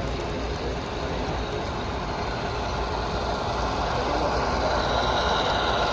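HO scale model train running on a layout: a steady mechanical whir of motor and wheels on track, growing a little louder toward the end.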